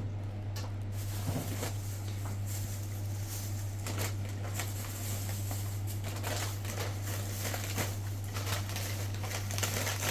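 Irregular rustling and small clicks of objects being handled, over a steady low hum.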